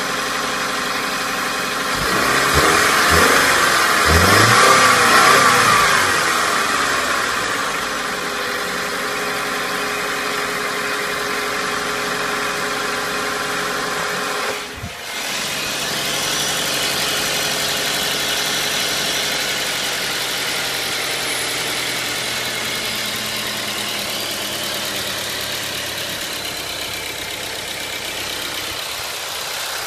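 Subaru Levorg 1.6's turbocharged flat-four engine running just after start-up, the time when the owner says an abnormal noise sometimes appears. About two seconds in, the sound swells and its pitch sweeps up and down for a few seconds. It then settles into a steady idle, with a brief drop about halfway through.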